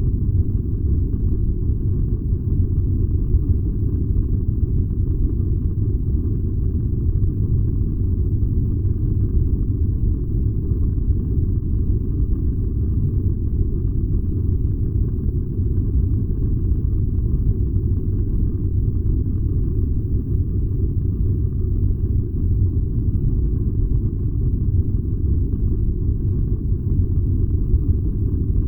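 Furnace running: a steady, unbroken low rumble.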